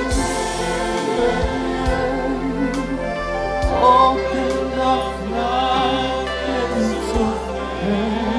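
Worship song: a choir singing sustained, wavering notes over instrumental backing with light drum hits.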